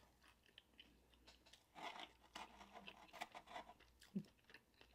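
Faint, close chewing of fried chicken wings: soft crunches and wet mouth clicks. A short soft knock about four seconds in.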